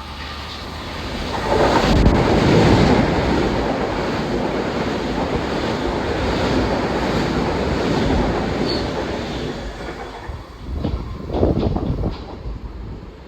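Long Island Rail Road train running past on the tracks: a loud rolling rumble of wheels on rail that swells sharply about two seconds in, holds steady, then gives a few last surges and fades near the end.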